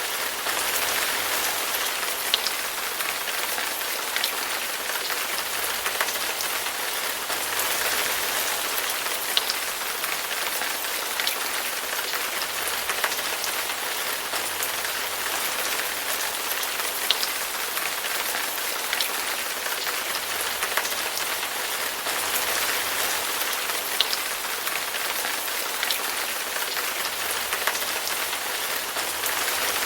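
Steady rain falling and pattering on a surface, a constant hiss with occasional sharper individual drop impacts.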